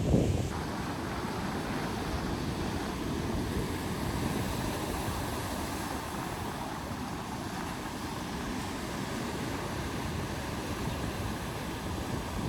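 Sea surf and wind at a beach, a steady rushing noise with wind buffeting the microphone.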